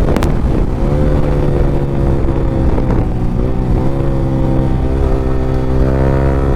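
Yamaha R15 V3's 155 cc single-cylinder engine running at high, steady revs through an Akrapovic exhaust with the dB killer removed, the bike cruising at speed. The engine note holds steady, with a few small rises in pitch as the throttle is opened.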